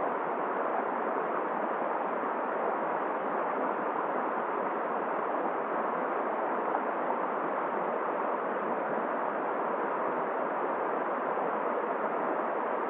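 Winter storm ambience: steady wind and flowing river water blend into one even rushing noise that does not change.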